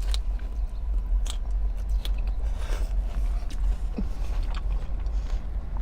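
A person chewing and biting crunchy food, with scattered short crunches and clicks, over a steady low rumble.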